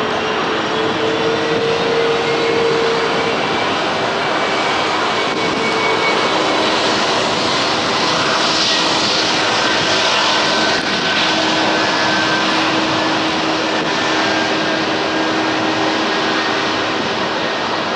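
Jet roar from the Airbus A380's four turbofan engines, loud and steady, with several steady whining tones running through it and a little more hiss in the middle.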